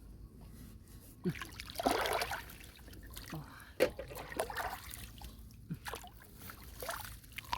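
Shallow pond water trickling and sloshing as it is stirred by hand, with irregular small splashes and sharp plops.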